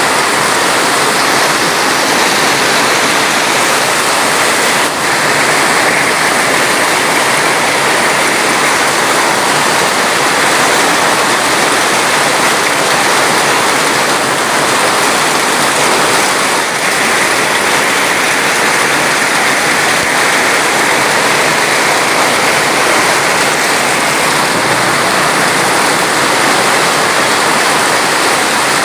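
Loud, steady rush of water, an even dense hiss that does not change.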